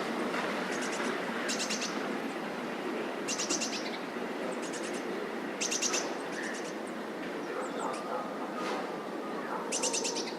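Small birds chirping in short, rapid high-pitched trills, repeated every second or two over steady outdoor background noise.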